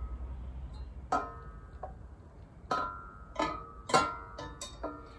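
A chrome motorcycle exhaust pipe clinking against metal as it is manoeuvred into place on the frame. There are about seven sharp knocks, each with a short bell-like ring, and the loudest comes about four seconds in.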